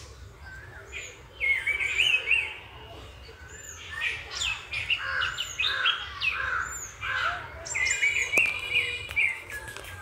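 Several birds calling and singing: a burst of warbling song twice, short high chirps repeating throughout, and a run of lower rounded notes in the middle.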